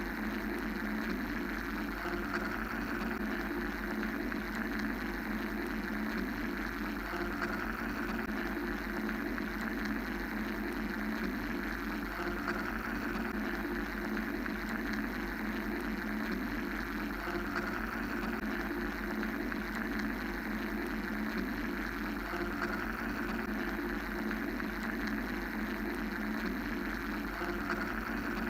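Steady mechanical white-noise drone made of layered bands, a deep rumble, a low hum and a brighter hiss, with the hiss swelling gently about every four to five seconds.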